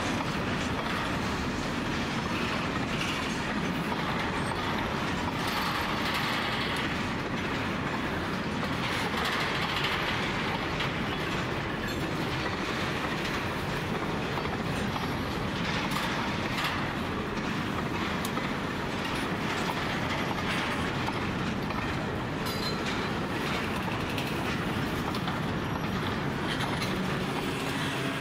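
Empty grain hopper wagons of a freight train rolling slowly past, with a steady rumble of wheels on rail and scattered clicks and clatter from the wheels and couplings.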